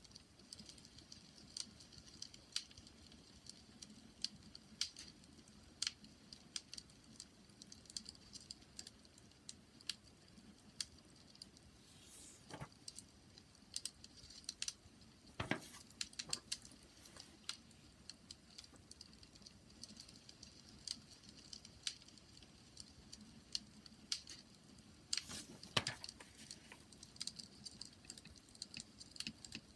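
Campfire crackling: irregular small snaps and pops of burning wood over a faint low hiss, with a few louder pops scattered through.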